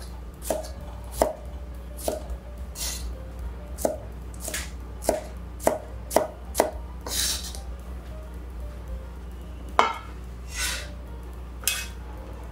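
Kitchen knife slicing a red bell pepper into strips on a wooden cutting board: a string of irregular knife knocks against the board. In the second half there are a couple of scraping sweeps and one louder knock as the cut pieces are gathered up.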